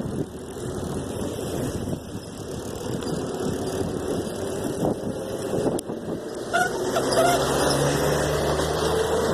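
A motor vehicle's engine running as it approaches, growing louder over the last few seconds.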